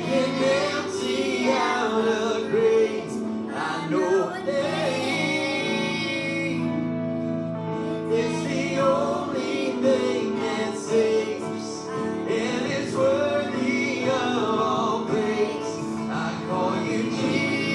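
Worship music: a group of men and women singing a gospel-style hymn together over sustained instrumental accompaniment.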